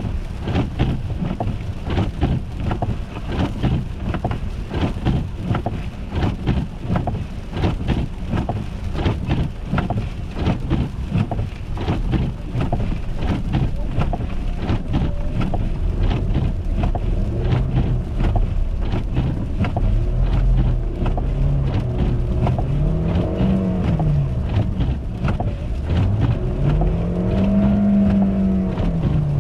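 Car driving on an icy road, with constant crackling and crunching from ice under the tyres or on the car. In the second half the engine revs rise and fall several times, with two bigger swells near the end.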